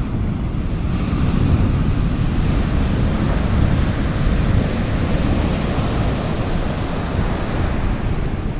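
Sea waves washing onto a beach in a continuous surf, swelling a little about one to four seconds in, with a low wind rumble on the microphone.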